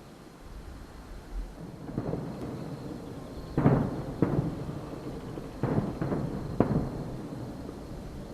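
Distant aerial fireworks shells bursting: a string of about six booms, each with a rumbling tail, the loudest around the middle.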